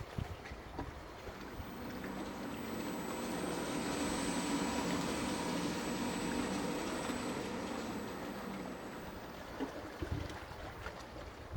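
A motorboat engine passing by, growing louder to a peak midway and then fading away. Wind buffets the microphone near the start and again near the end.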